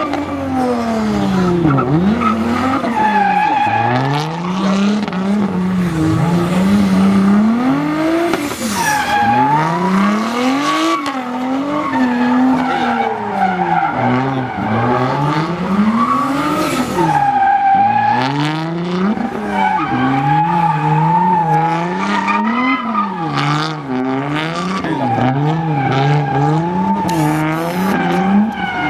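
Hyundai Genesis Coupe drifting: the turbocharged engine's revs climb and drop again and again, about every one to two seconds, over a steady tire squeal.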